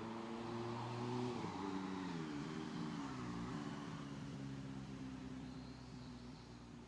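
Engine of a passing motor vehicle, its pitch dropping as it goes by and fading away.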